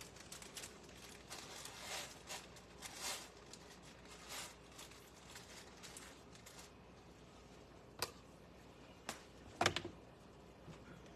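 Faint kitchen handling noises: light rustling and small clicks, then three sharp clicks in the last few seconds, the last one the loudest.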